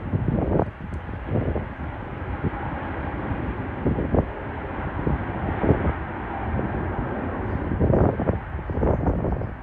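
Jet airliner engine noise: a steady, noisy rumble with irregular surges every second or so.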